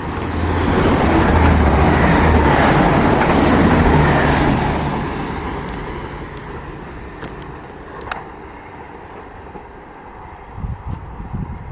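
A train passing through the station at speed: a rush of wheel and running noise over a low hum, swelling over the first second, loud for a few seconds, then slowly fading as it goes away.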